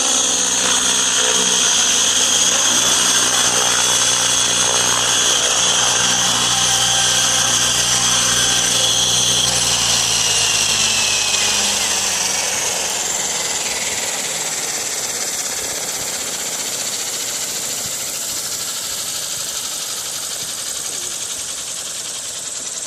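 Align T-Rex 700E electric RC helicopter's motor and gear drivetrain running with a steady high whine, then spooling down from about ten seconds in, the pitch falling as it slows. The drivetrain carries a strange extra noise, which the owner traces, apparently, to the motor pinion gear mount bearing.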